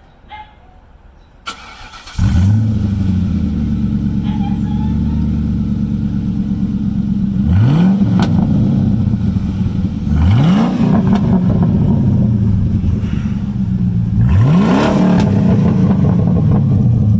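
2004 Mustang GT's 4.6 V8 with its mufflers deleted, started cold: it fires about two seconds in and settles into a steady idle. It is blipped three times, each rev rising quickly and dropping back to idle.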